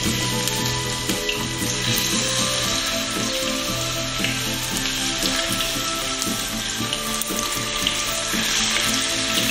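Eggplant pieces frying in hot oil in a pan, a steady sizzle with small crackles as more pieces are laid in with chopsticks.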